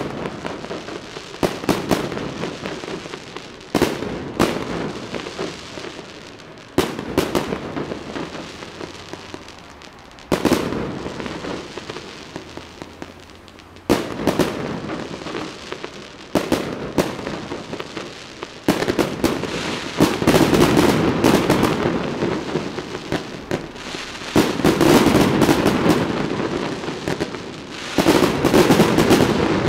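Fireworks display: aerial shells bursting with sharp bangs every few seconds, each trailing off in crackling. In the last third the bursts come thick and fast, almost without a break.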